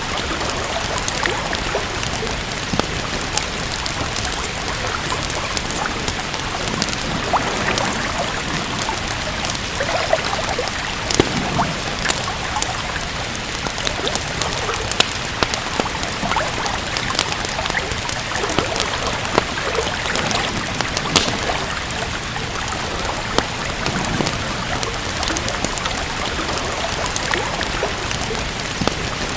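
Steady rain together with a crackling wood fire: an even hiss of rain, with irregular sharp pops and snaps scattered through it, a few of them louder.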